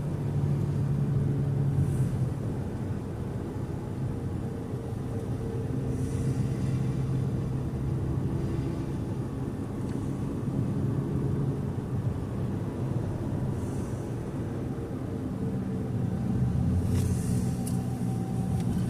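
Car engine and road noise while driving: a steady low drone whose pitch shifts a little now and then.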